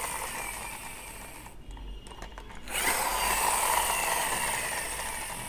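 Toy car's wheels spinning freely with a whir, twice: the first run fades out about a second and a half in, and a second run starts near the middle and winds down, falling in pitch.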